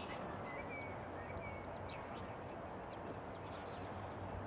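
Outdoor ambience: small birds calling with repeated short, high chirps over a steady faint hiss of open air.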